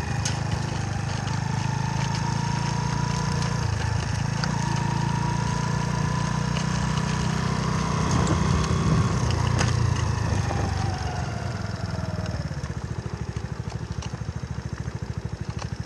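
Mutt Akita motorcycle engine running with the throttle held open, its pitch creeping up, then sinking about ten seconds in as it drops back to an evenly pulsing idle.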